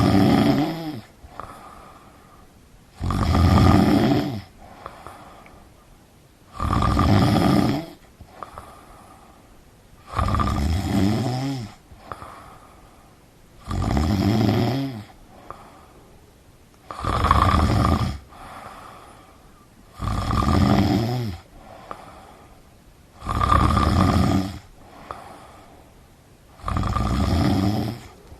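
A person snoring heavily: a loud snore about every three and a half seconds, nine in all, each lasting a little over a second, with a softer breath between.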